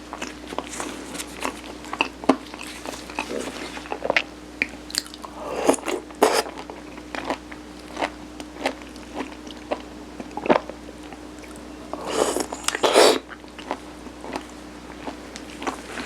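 Close-miked chewing and biting of Korean steamed rice cake (sirutteok) coated with mung bean, with frequent small wet mouth clicks. Two louder bursts come about six seconds in and again near twelve to thirteen seconds. A faint steady hum runs underneath.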